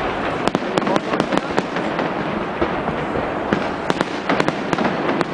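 Fireworks going off: many sharp, irregular cracks and pops, several a second, over a continuous dense rumble of further bursts.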